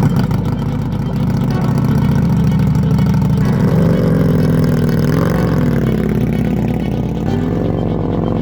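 The V-twin engine of a land-speed racer built from a 2017 Indian Scout, running and being revved, its pitch rising and falling.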